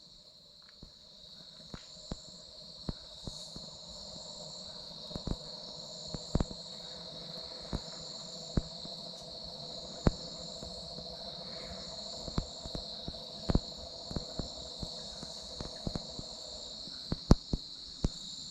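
Insects chirping steadily in a high band, with a faint, steady, low drawn-out call underneath for most of the stretch, which the listener takes for a big koala, or jokingly a yowie. Scattered sharp clicks come and go throughout.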